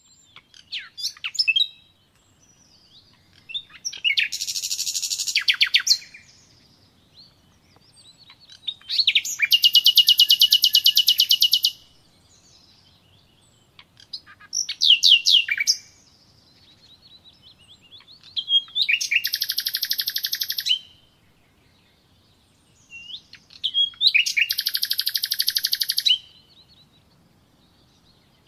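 A songbird singing in repeated phrases. Each phrase is a few sharp, high, falling notes, sometimes followed by a very fast trill lasting two to three seconds. There are four such trills, about five seconds apart.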